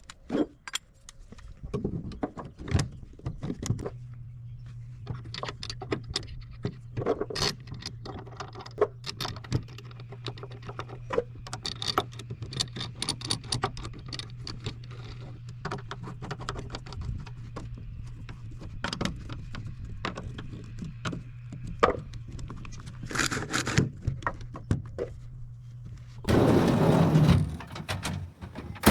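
Metal hardware of retractable ratchet straps and their tie-down mount being handled in a pickup bed: a run of jangling clinks, scrapes and clunks over a steady low hum. Near the end comes a loud rush lasting about two seconds.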